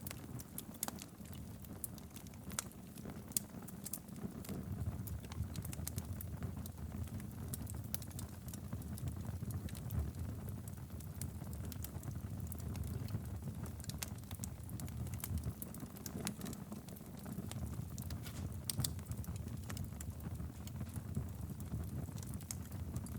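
Wood fire burning steadily in a fireplace, a low continuous rumble of flame with frequent irregular crackles and pops.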